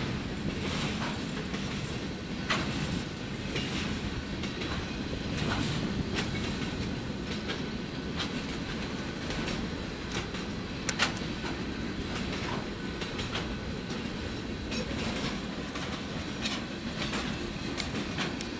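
Freight train of flatcars loaded with wind turbine blades rolling steadily past, its wheels making a continuous rumble on the rails. Irregular clicks run throughout, with one sharper click about eleven seconds in.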